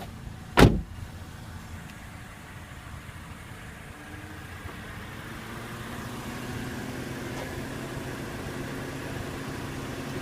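A 2014 Toyota Corolla S's 1.8-litre four-cylinder engine idling steadily, a little louder in the second half. A single thump about half a second in.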